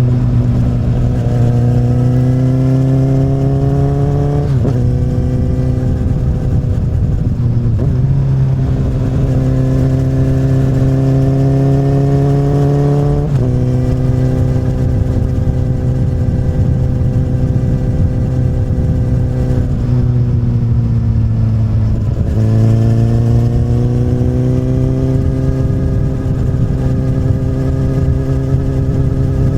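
A 2008 Honda CBR1000RR's inline-four running through an Akrapovic carbon slip-on exhaust on the move. The revs climb and drop back at upshifts about four, eight and thirteen seconds in, then hold steady. They fall as the bike slows about twenty seconds in, and near the end they climb again and settle.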